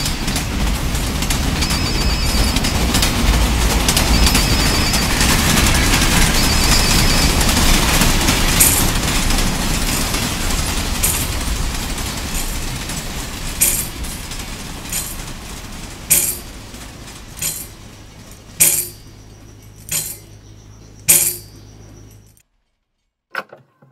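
A train's rumble, loud at first and fading away over about twenty seconds. In the second half, sharp metallic clinks come every second or two. The sound cuts off abruptly near the end.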